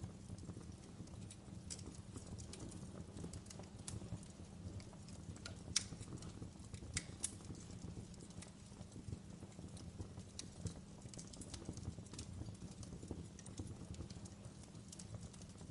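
Fireplace fire crackling: irregular sharp pops and snaps over a low steady rumble, with one louder pop about six seconds in.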